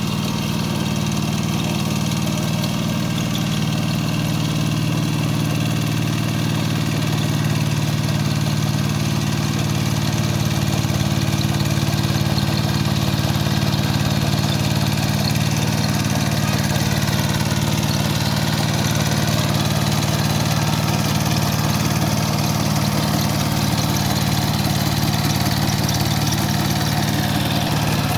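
Kubota K700 power tiller's single-cylinder diesel engine running steadily, a little louder from about eight seconds in.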